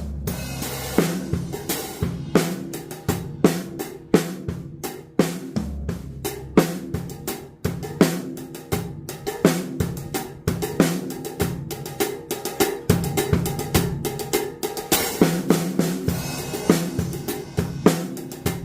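Odery drum kit played in a sound check: a steady run of snare, bass drum and hi-hat strokes with tom fills, and cymbal crashes ringing at the start and again about fifteen seconds in.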